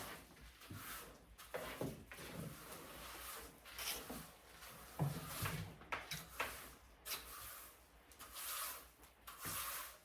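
Cat litter being scooped: repeated scraping and rustling strokes of a scoop through granular litter in a litter box, with a few soft knocks.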